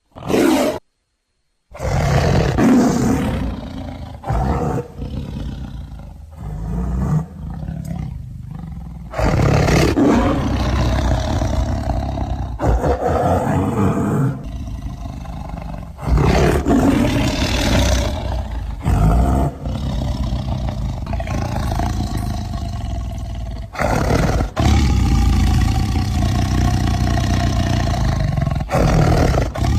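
Smilodon (saber-toothed cat) creature sound effects: a string of loud big-cat roars. A short one comes first, then a brief gap, then clip after clip spliced together with abrupt cuts.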